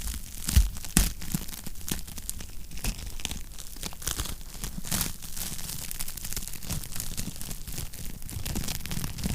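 Wood fire crackling in a fireplace: dense, irregular snaps and pops over a low rumble, with two louder pops about half a second and a second in.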